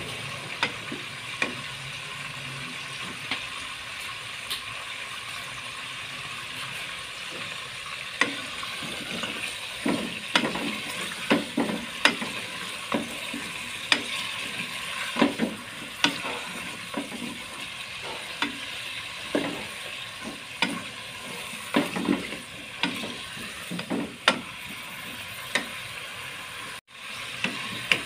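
Chicken legs sizzling steadily as they fry in oil and spices in an open pressure cooker, while a wooden spatula stirs them and knocks against the metal pot many times. The sound cuts out briefly near the end.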